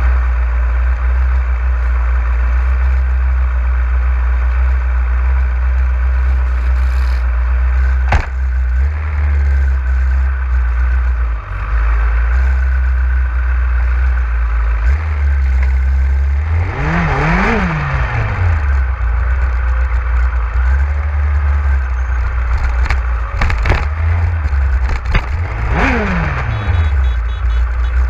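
Motorcycle on the move, with a heavy steady rumble of wind on the microphone. The engine revs up and back down twice, once past the middle and again near the end, with a few sharp clicks in between.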